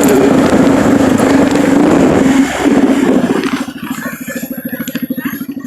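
A vehicle engine running with a loud steady hum and a rushing noise over it. About three and a half seconds in, the rushing drops away and the engine settles to a rapid, even beat, as when the vehicle slows to idle.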